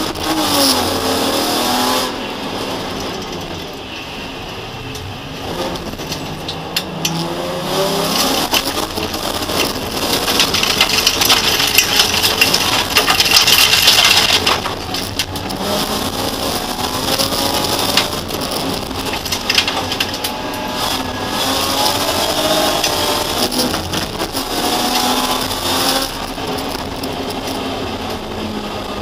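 BMW E30's M50B25 straight-six engine revving hard and shifting up and down through the gears, heard from inside the stripped race cabin. Gravel and dirt hiss against the car, loudest in the middle of the stretch.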